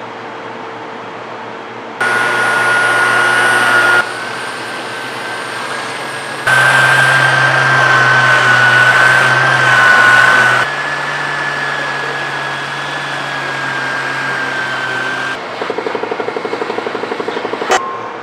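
A machine motor running with a steady high whine over a low hum, in several short stretches that cut in and out abruptly, turning to a fast pulsing near the end with a sharp click just before it stops.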